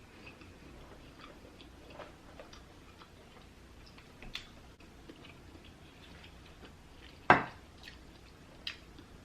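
Quiet eating sounds from a seafood meal: scattered small clicks and smacks, with one loud sharp click about seven seconds in.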